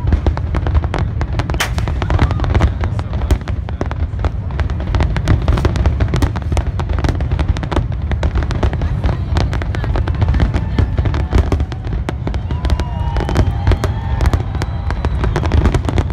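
Aerial fireworks shells bursting in rapid, near-continuous succession, sharp cracks and pops over a constant deep rumble.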